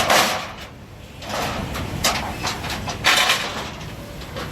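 A semi truck's engine rumbling low and steady, with four short hisses of air from its air system.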